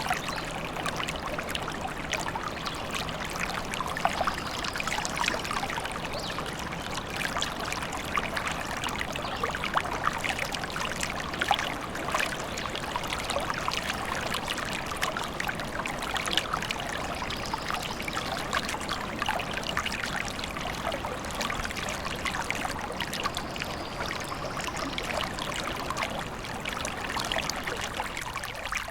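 Forest stream babbling and trickling steadily, a dense even splashing with no let-up.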